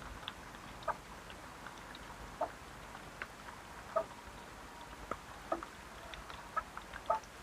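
Steady rain with short, irregular pitched plinks about once a second.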